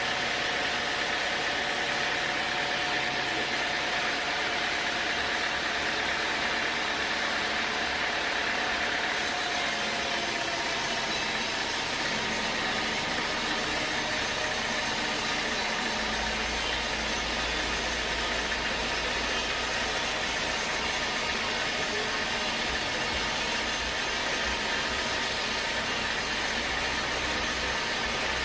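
Sawmill machinery running steadily, a constant mechanical noise with a deeper rumble coming in a little past halfway.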